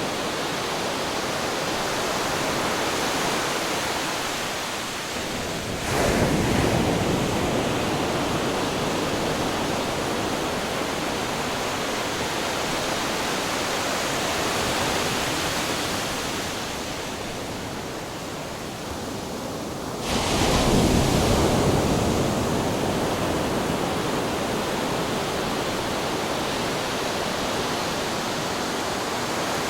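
Ocean waves crashing against rocks: a steady wash of surf, with two waves breaking hard, about 6 and 20 seconds in, each surging suddenly and then draining away over several seconds.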